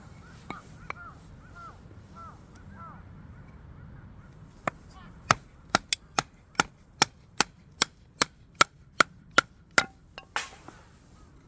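Firewood being split: about a dozen sharp, evenly spaced knocks, a little over two a second, ending in a louder crack near the end.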